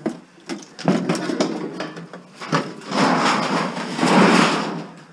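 Plastic casing of a multi-disc CD player being handled and pulled apart: clicks, then two long stretches of rough scraping and rattling of plastic parts.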